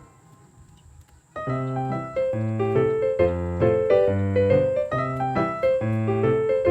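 Background piano music with a steady, repeating pattern of notes. It stops for about a second at the start and comes back in about a second and a half in.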